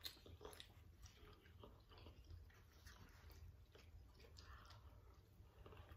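Faint chewing with a few small, soft clicks, such as forks against food containers, barely above near silence.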